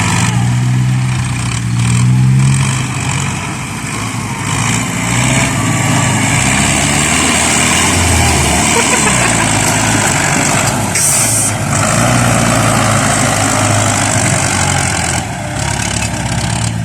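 Heavy diesel engine of earthmoving machinery working, its revs rising and falling under load. A brief hiss about eleven seconds in.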